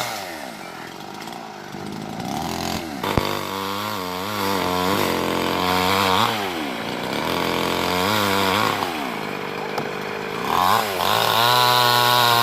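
Two-stroke chainsaw revving again and again, its engine pitch rising and falling every second or two as the throttle is worked. A single sharp click comes about three seconds in.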